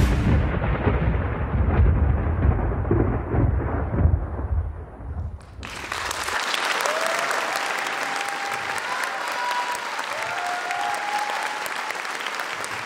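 The last seconds of electronic dance music, muffled and bass-heavy, stop abruptly about five and a half seconds in. Then an audience applauds, with a few cheering voices.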